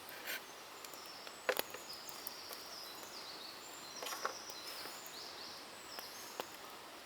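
A small bird singing high, thin sliding notes over a faint forest hush, with three sharp clicks.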